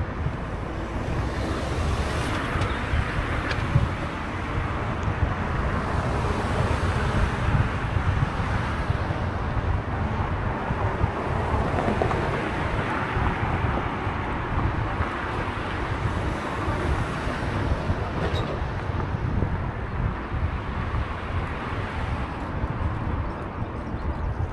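Wind buffeting the microphone on a moving bike, a steady rush with low, irregular thumping, over road and traffic noise.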